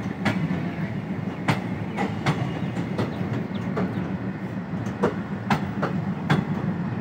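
Indian Railways passenger coaches rolling past at departure speed, their wheels clacking sharply and irregularly on the track over a steady low rumble.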